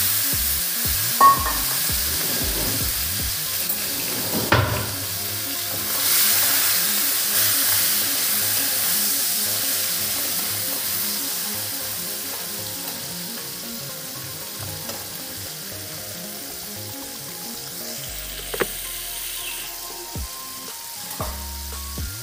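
Crab pieces frying in hot oil in a frying pan, sizzling hard at first and slowly dying down as they cook. A few knocks and scrapes come from a metal spatula turning them.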